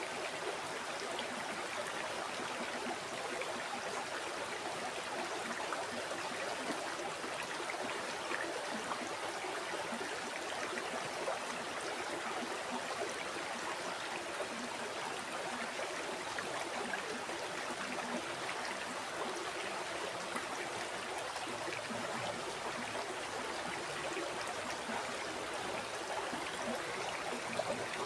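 A river flowing steadily over rocks, a continuous rush of water with fine babbling and gurgling detail.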